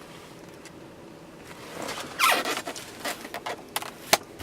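Handling sounds in a car cabin: a brief scraping, rubbing slide about two seconds in, then a few sharp clicks like interior switches or trim being pressed.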